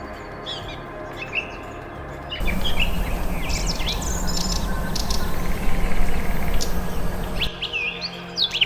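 Small birds chirping and calling in short, high notes. From about two and a half seconds to seven and a half seconds a louder stretch with a steady background noise under the chirps sets in and then cuts off abruptly.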